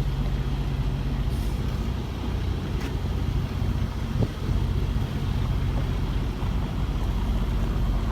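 Semi-truck tractor's diesel engine running steadily at low revs, with a faint click about three seconds in.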